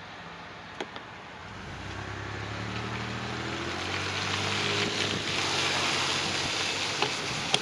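A motor vehicle approaching and passing, its engine and tyre noise swelling to a peak about five seconds in over steady wind noise. Two short clicks come about a second in.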